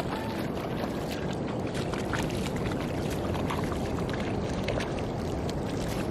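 Shallow water sloshing and splashing, with many small sharp splashes over a steady low wash of noise, as a seine net is hauled through it by people wading.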